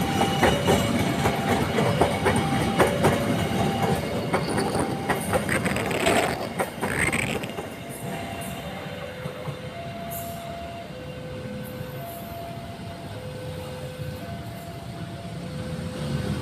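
A train passing close, its wheels clicking over the rail joints, with a brief rising squeal about six seconds in; it fades away after about seven seconds. Underneath, a level-crossing warning alarm keeps sounding two alternating tones.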